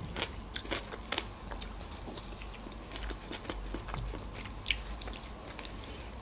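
A person chewing and biting pan-fried chicken wings: a run of small, sharp mouth clicks, with one louder click about three-quarters of the way through.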